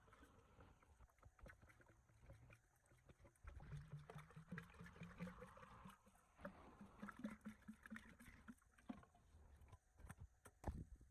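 Near silence: faint scattered clicks, with a faint low pitched sound through the middle.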